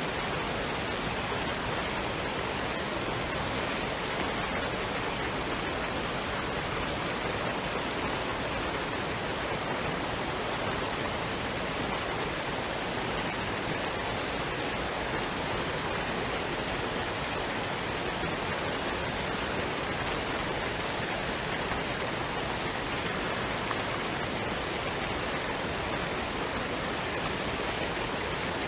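Waterfall and stream water rushing in a steady, unbroken wash of noise.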